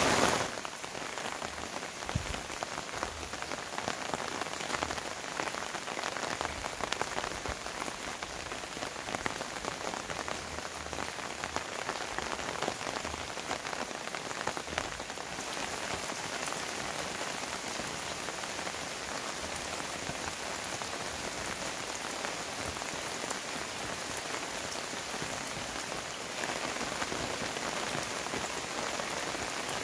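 Heavy rain falling steadily, a dense hiss scattered with many sharp drop clicks. The level falls about half a second in and rises a little near the end.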